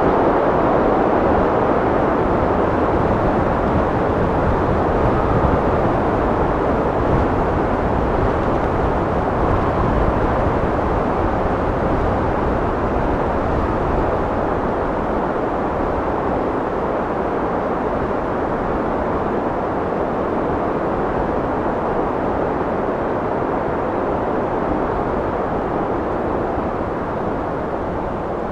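Steady wind blowing, a continuous rushing noise without gusts or breaks, easing slightly in level toward the end.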